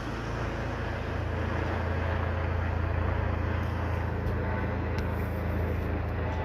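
Police helicopter overhead, its rotor and engine making a steady low drone that swells slightly and eases off.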